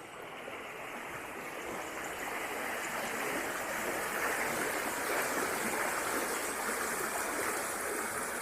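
River flowing: a steady rush of water that grows a little louder over the first few seconds, then holds even.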